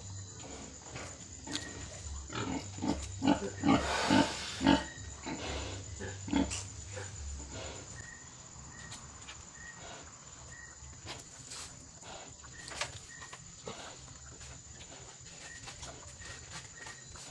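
Pigs grunting, with a cluster of loud short grunts between about two and a half and five seconds in, then quieter scattered grunts and knocks.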